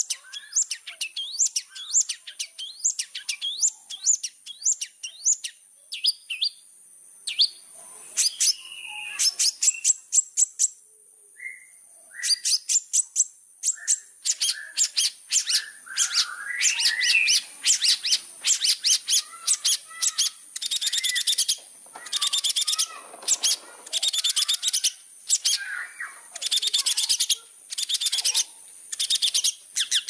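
Long-tailed shrike (cendet) singing a fast, varied chatter: runs of sharp high chips and quick trills, with a short break about ten seconds in, followed by longer strings of rapid rattling notes.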